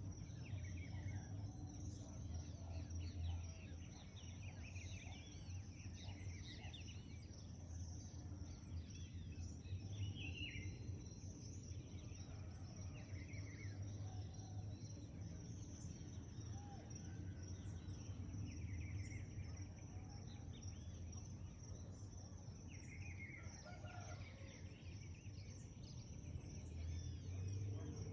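Dawn chorus: many birds singing and calling in short, overlapping phrases, over a steady high-pitched hum and a low steady rumble.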